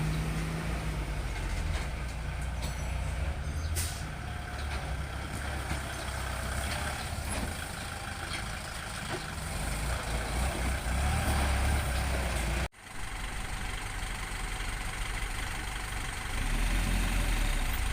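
Heavy diesel machinery of an earthmoving job running steadily, its engine note swelling and easing under load. The sound drops out for a moment about two-thirds of the way through.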